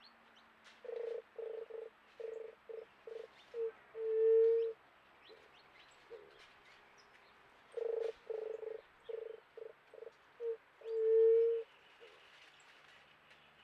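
Juriti (Leptotila dove) singing two phrases of low coos. Each phrase is a run of notes that get shorter and quicker, ending in one long, louder coo. Faint chirps of small birds sound behind it.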